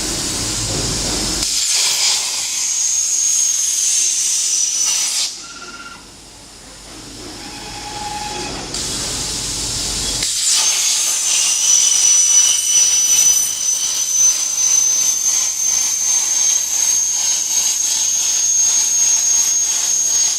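CNC plasma cutter's torch cutting metal plate: a loud hiss with a steady high whine. It drops away for a few seconds about five seconds in and starts again about ten seconds in.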